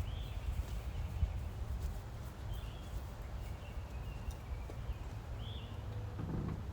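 Outdoor ambience: a steady low rumble with three short, high, curved chirps spread across it, most likely a bird calling.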